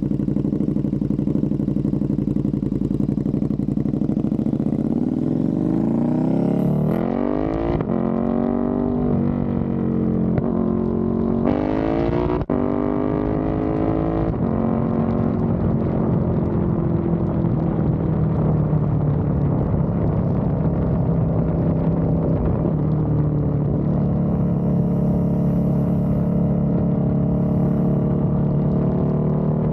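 KTM 1290 Super Duke R Evo's V-twin engine through a full titanium exhaust with an Akrapovič ECU flash. It runs steadily, then rises in pitch in three or four sweeps between about six and fourteen seconds in, each ending in a sudden drop. The pitch then falls slowly and settles back to steady running.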